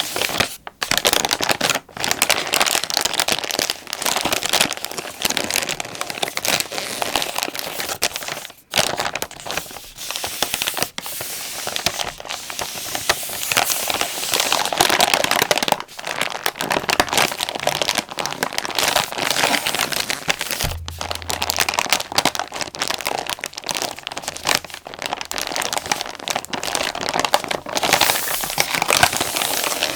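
Plastic wet-wipes pack being crinkled and squeezed close to the microphone: dense, irregular crackling with many sharp crisp pops.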